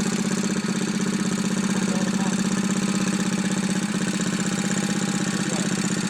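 Tractor engine running at a steady speed, a continuous even chugging with no revving.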